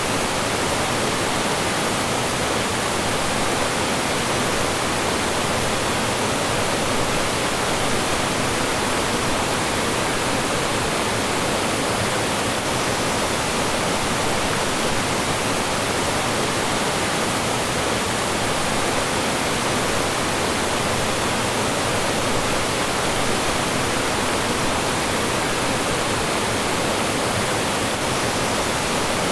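Mountain stream flowing and falling in small cascades: a steady, even rush of water.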